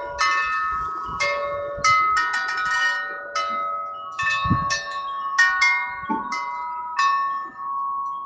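Wind chimes ringing in gusty wind, struck irregularly about a dozen times, their long ringing tones overlapping.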